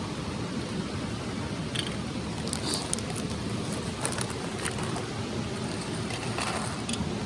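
Steady rush of a mountain stream, with several short clicks and small scrapes scattered over it.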